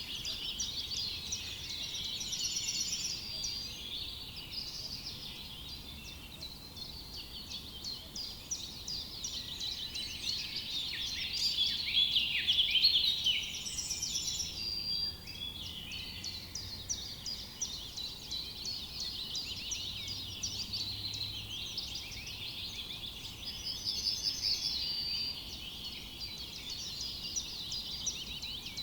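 A dense chorus of many songbirds chirping and trilling at once, with no break, swelling loudest about halfway through.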